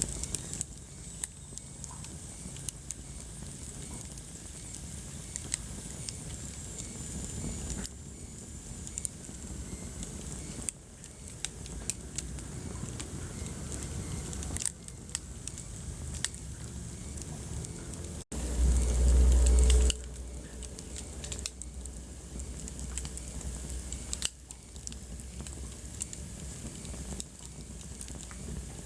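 Wood fire burning in a fireplace, crackling and popping with many sharp irregular snaps over a low rumble. A faint high hiss whistles for a couple of seconds early on, and about two-thirds of the way through the sound cuts out for an instant and a louder low rumble swells for a second or two.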